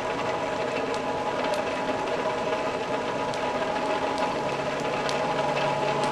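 Forge air blower running steadily with a whirring hum, while the coke fire gives a few faint crackling pops.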